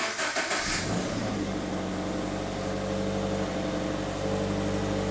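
Subaru BRZ's 2.0-litre flat-four on its stock exhaust, coming in with a brief flare and then settling into a steady idle.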